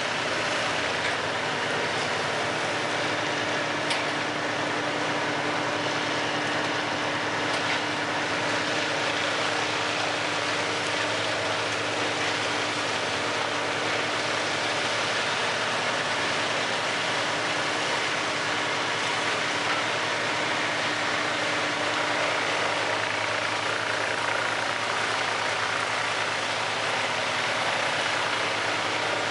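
Large industrial wood chipper running steadily: a constant, dense machine noise with a steady engine drone underneath, unchanging throughout.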